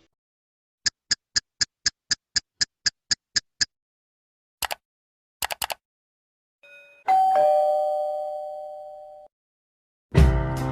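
A two-note doorbell chime, a higher note then a lower one, ringing for about two seconds before cutting off. Before it come a run of about a dozen sharp clicks at about four a second, then a single click and a quick triple click. Music starts near the end.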